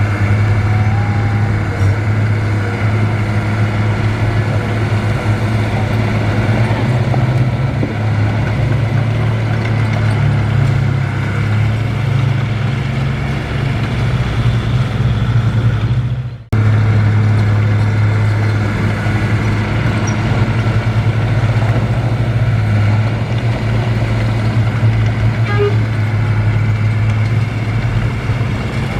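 Heavy diesel earthmoving machinery running steadily under load, a deep, even engine drone. It drops out for an instant about halfway through, then carries on.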